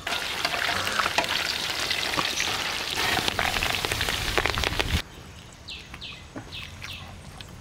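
Chicken pakoda deep-frying in hot oil: a dense sizzle with crackles that cuts off abruptly about five seconds in. A quieter background follows, with a few short high chirps.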